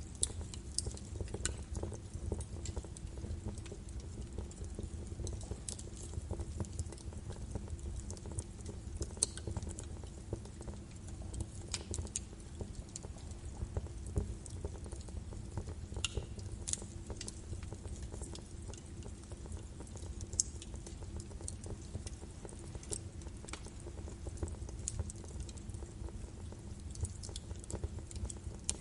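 Birch logs burning in a fireplace: a steady low rumble of flame with irregular sharp crackles and pops scattered throughout.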